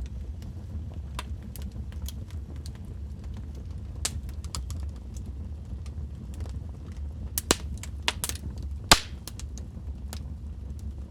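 Burning logs in a fireplace, crackling: a steady run of small snaps over a low rumble, with a few louder pops in the second half, the loudest about nine seconds in.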